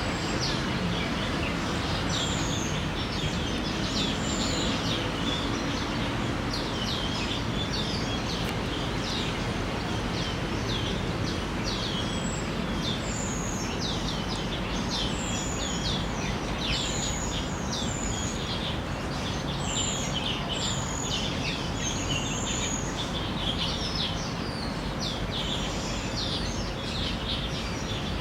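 Several small birds chirping and calling over one another in quick, short notes, over a steady low background noise.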